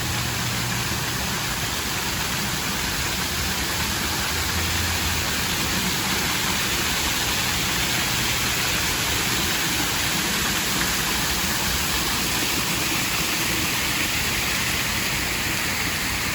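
Park waterfall, a steady rush of falling water splashing into a pool.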